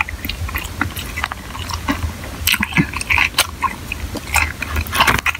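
A person chewing crispy fried food close to the microphone: quick, irregular crunching crackles over a low steady hum.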